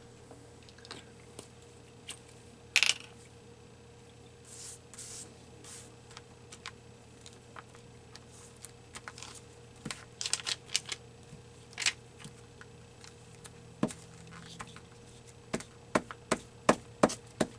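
Paper and craft supplies handled on a tabletop: a brief rustle of paper about three seconds in, soft rubbing, then scattered small sharp clicks and taps, over a faint steady hum.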